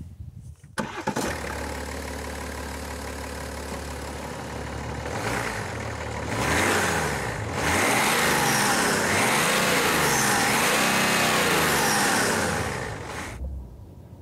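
BMW B57 3.0-litre straight-six twin-scroll turbodiesel starting about a second in and settling into a steady idle. It is then revved up in stages and held at higher revs for several seconds before dropping back near the end.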